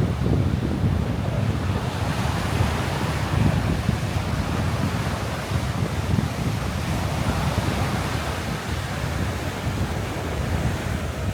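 Sea surf washing onto a sandy beach, a continuous hiss, with strong wind buffeting the microphone in rumbling gusts.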